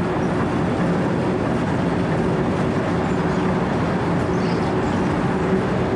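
Wirtgen W 120 CFi four-foot asphalt milling machine running steadily as it cuts a straight pass: a dense, even mechanical hum from engine and cutting drum, with a low steady drone.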